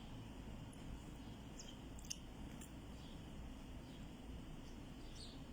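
Quiet room tone: a low steady hum with a few faint, short clicks.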